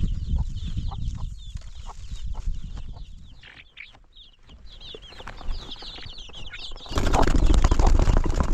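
Chickens clucking, with many short high peeps, over a low rumble. About seven seconds in, a sudden loud, even rushing noise comes in and covers them.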